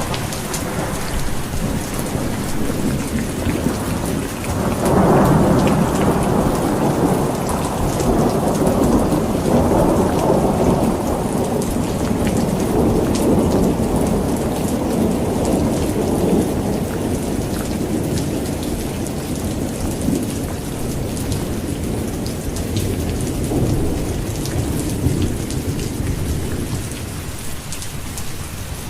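Heavy rain falling steadily, with a long rolling peal of thunder that swells about five seconds in and slowly dies away.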